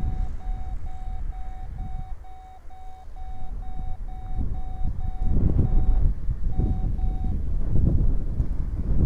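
Strong wind buffeting the microphone in gusts, getting louder about five seconds in, with an electronic beeper sounding a rapid steady beep, about four beeps a second, that stops near the end.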